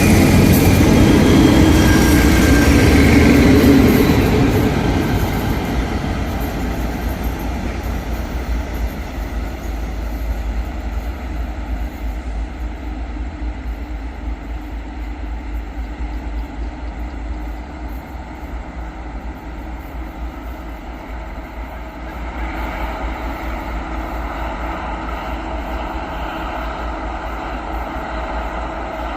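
Sprinter diesel railcar train running on the line, loud for the first few seconds and then fading. About 22 seconds in the sound rises again into a steady engine drone with a few held tones.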